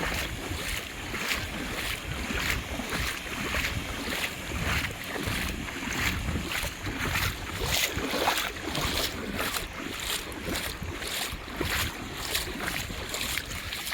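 Footsteps wading through shallow lake water, a splash about twice a second, with wind rumbling on the microphone.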